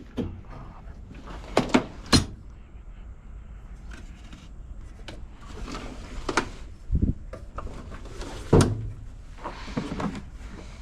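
Scattered clicks, knocks and clunks of hand tools and metal parts being handled during engine work, the loudest about two, six and a half and eight and a half seconds in.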